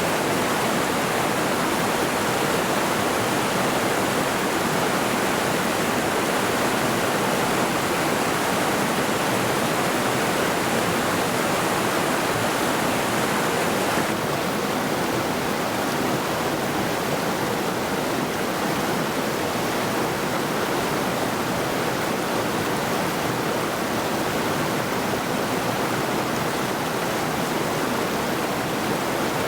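The Middle Saluda River flowing: a steady, dense rush of water with no let-up. The higher hiss eases slightly about halfway through.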